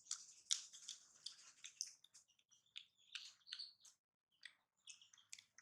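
A young pet monkey lip smacking and chewing a snack. It makes faint, rapid, irregular wet clicks mixed with small high squeaks, several a second, with a pause of about half a second a little after the middle.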